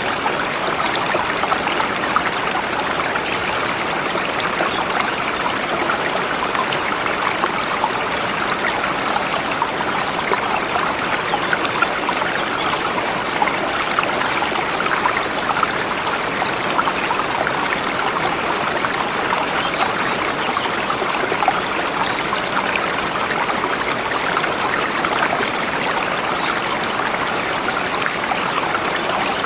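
A forest river flowing over rocks: a steady rush of running water.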